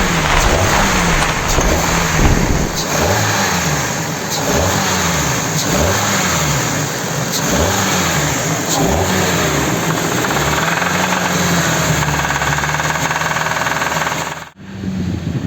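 Kia K5 engine revved in repeated blips, its pitch rising and falling, then held at a steady higher speed, with a short drop-out near the end. It is being revved to bring out a knock that appears from about 2000 rpm, which the mechanics trace to a faulty intake cam phaser.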